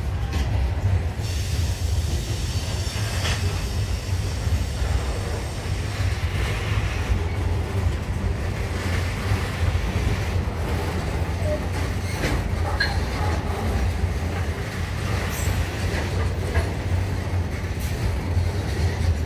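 Coal hopper wagons of a freight train rolling past at steady speed: a continuous rumble of steel wheels on rail, with occasional sharp clicks and brief wheel squeals.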